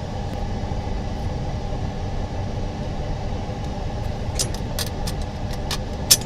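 Steady low machine rumble, with a run of about eight sharp light clicks over the last two seconds, the loudest just before the end, as parts are handled and set into the laminator's mould.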